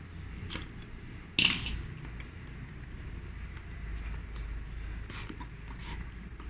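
Hands opening a phone's cardboard retail box and packaging: a sharp snap about a second and a half in, then scattered lighter clicks and rustles.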